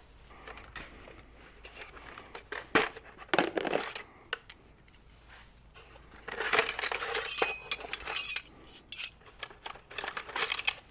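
Small metal hardware clinking and rattling as someone rummages through loose parts looking for L-shaped brackets. Scattered clinks, with a longer run of clatter about six seconds in.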